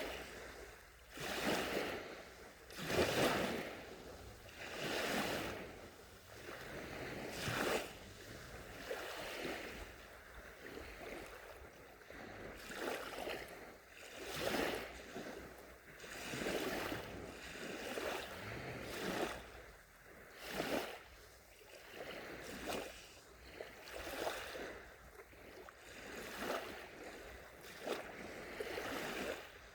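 Small sea waves washing onto the shore, one soft rush of surf every second or two.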